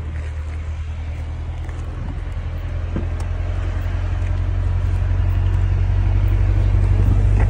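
Car engine idling, a steady low hum that grows gradually louder.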